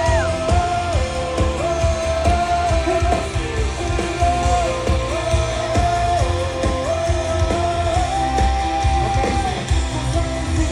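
Live rock band playing loud amplified music: guitars, bass and drums under a held melody line that steps between a few notes.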